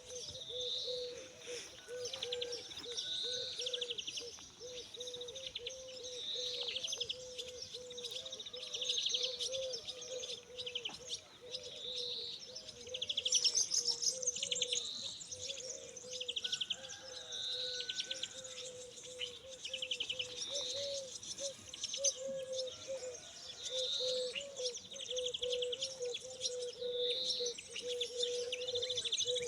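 Birds singing: a short high trilled phrase repeated every two seconds or so, over a steady lower warbling tone.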